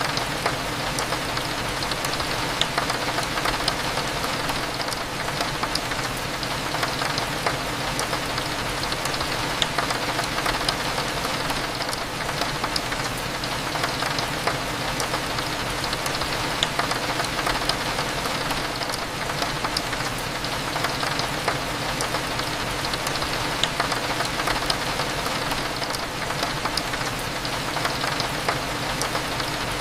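Steady rain hitting a window, a constant wash of noise with many small ticks of single drops, over a low steady hum.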